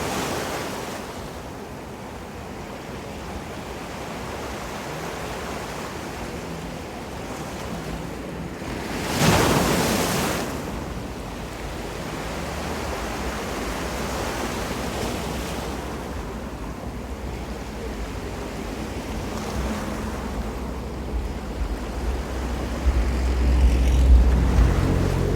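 Ocean waves washing ashore, with one wave surging loudest about nine seconds in. A low rumble builds near the end.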